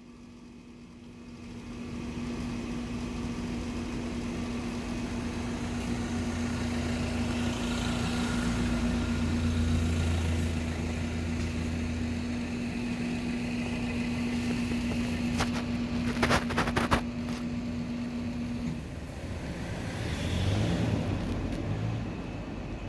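Street traffic: a car passes, its noise swelling and fading, with a steady hum that stops about three-quarters of the way through. A few sharp clicks come about two-thirds of the way in.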